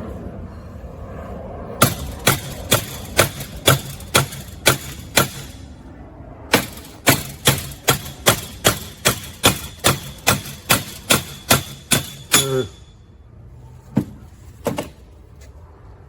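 A hammer striking repeatedly, about two blows a second, in two runs of strikes with a short pause between and two more blows near the end.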